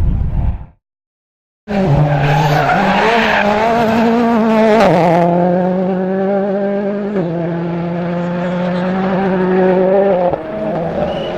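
Rally car engine at high revs with its tyres skidding and squealing, the engine pitch stepping up and down through gear changes; the tyre hiss is strongest in the first few seconds. It follows a second of silence at an edit cut.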